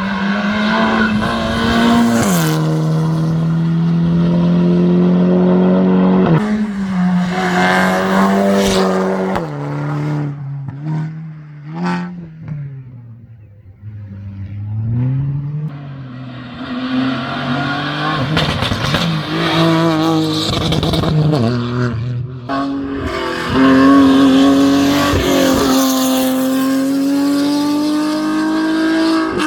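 Race car engine driven hard up through the gears: its pitch climbs and drops sharply at each upshift, falls back and quietens about halfway through as the car slows, then pulls up through the revs again.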